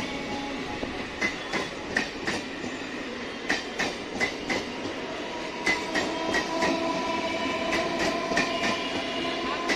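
Electric local train running on the line, its wheels clicking over the rail joints in an uneven clickety-clack over a steady rumble. A steady whine grows stronger about five seconds in.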